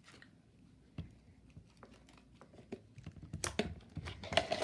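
Slime being squished and stretched by hand: a run of small sticky clicks and pops that gets busier and louder near the end.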